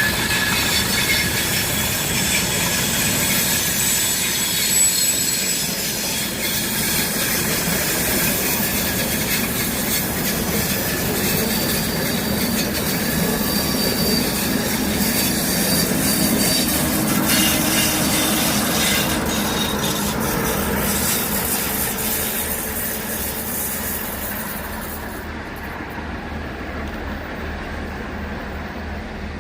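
A train moving over the rails with its wheels squealing. The sound fades near the end.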